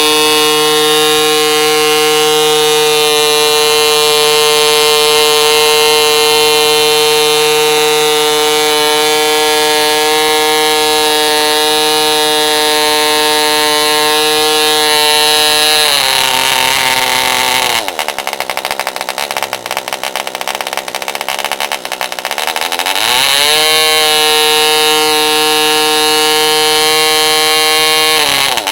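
Frog 80 0.8cc model diesel engine running at steady high speed, swinging a 7x4 propeller that is too big for it. About two-thirds of the way through it drops in speed and runs rough and uneven for several seconds, then picks back up to the same steady note, and slows again at the very end.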